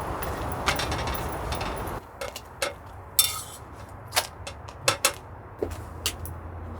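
A steady hiss that cuts off abruptly about two seconds in, then a series of sharp, separate clicks and knocks of utensils against dishes and cookware.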